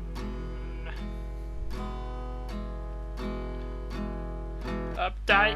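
Acoustic guitar strumming chords in an even rhythm, an instrumental break in a sung song.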